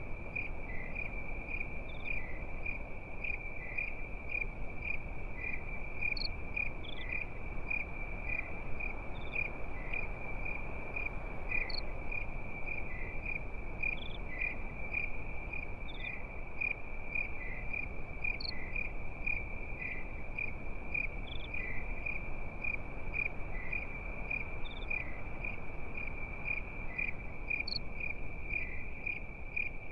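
Crickets chirping in a steady, high, pulsing trill over a low, even rustle from a campfire, with a few faint pops scattered through.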